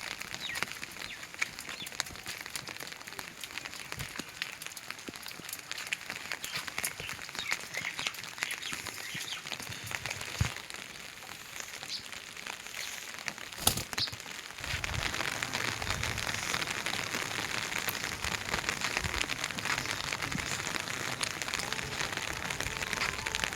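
Heavy rain falling steadily, with many separate drops striking close by as sharp ticks. About two-thirds of the way through it grows louder and fuller.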